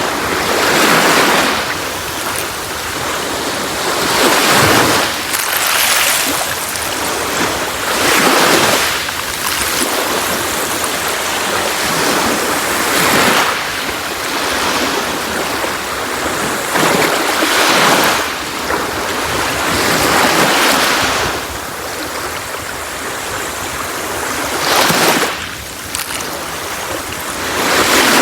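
Sea waves breaking on a beach, a steady surf hiss that swells with each wave every three to five seconds.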